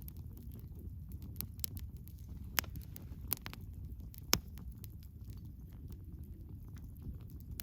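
Wood campfire crackling, with a steady low rumble under frequent small snaps. Three louder pops come about two and a half, three and a third, and four and a third seconds in.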